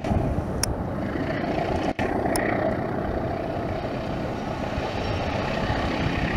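Steady low rumble of a diesel-hauled passenger train moving away along the track, with a brief break in the sound about two seconds in.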